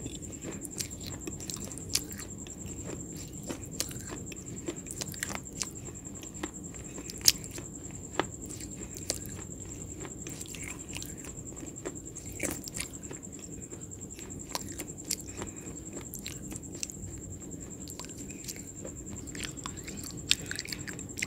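A person biting and chewing a crisp, brittle food close to the microphone, with irregular sharp crunches several times a second. The loudest crunch comes about seven seconds in.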